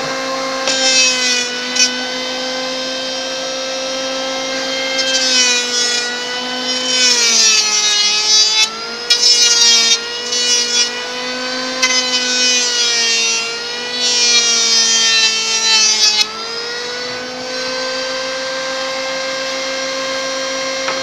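Electric wood planer running steadily, its motor pitch sagging under load as it shaves a board with a hissing cut in several passes, from about a quarter of the way in until about three-quarters through.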